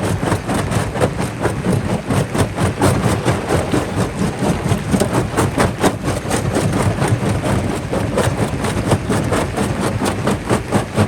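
Quarry jaw crusher running and crushing rock: a steady low rumble overlaid with rapid, irregular cracks and knocks of stone breaking.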